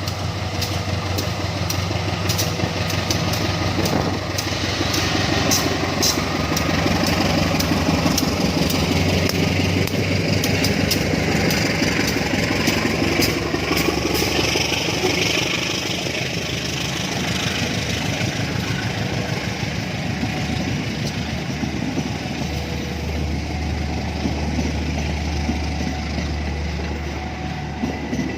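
Engines idling and running steadily, with scattered sharp clicks through the first half and a deeper engine hum swelling near the end.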